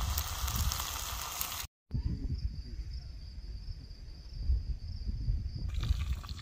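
Food sizzling and frying in a pan, an even hiss that cuts off sharply just under two seconds in. A quieter stretch follows with a steady high-pitched insect drone over low rumbling, then the frying sizzle returns near the end.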